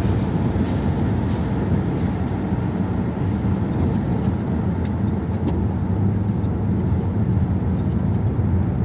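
1957 Ford Thunderbird's V8 engine and road noise as the car cruises at a steady speed, with no rise or fall in revs.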